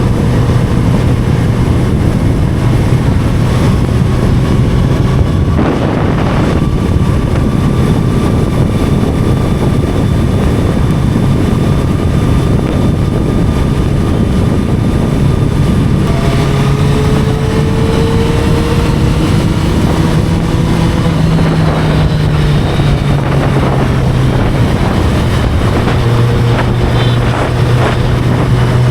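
Inline-four sport motorcycle engine running at a steady cruise under heavy wind rush on the microphone. A little over halfway through, the engine note climbs slightly, then eases back.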